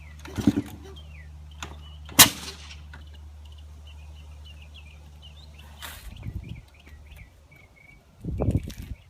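Kick-start attempts on a 1999 KTM 300 two-stroke dirt bike that will not start: short bursts of the engine turning over, with one sharp loud crack about two seconds in. Birds chirp in the background.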